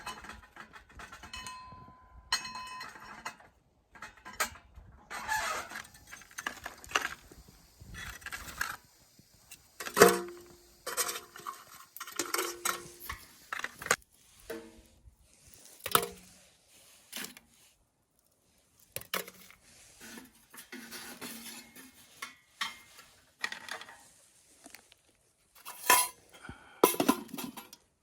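Metal cookware and utensils clinking and clattering as they are handled, in many irregular knocks, some of them ringing briefly.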